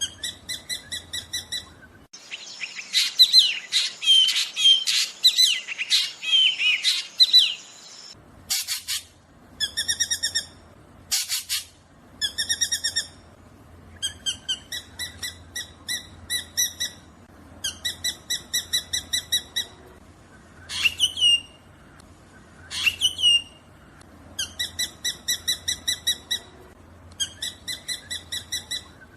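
Black drongo calling: repeated quick runs of short, evenly spaced notes, broken by a stretch of dense chattering about two seconds in and by two sweeping calls about three quarters of the way through.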